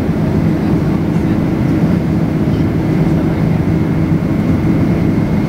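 Steady jet airliner cabin noise inside a Boeing 767-300: engine and airflow noise heard from a window seat, with a low hum and a faint high steady whine.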